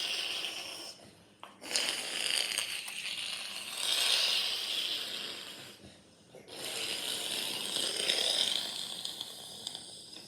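A child making a fighter-jet engine noise with his mouth: a breathy whooshing in three long swells, with a short break for breath about a second and a half in and another about six seconds in.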